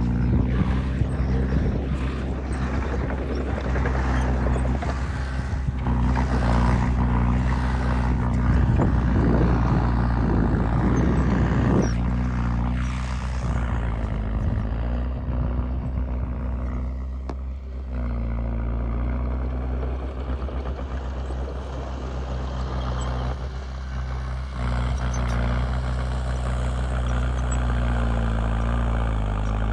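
Heavy diesel engine of earth-moving machinery running steadily, its engine note shifting a few times, with a louder, rougher stretch about eight to twelve seconds in.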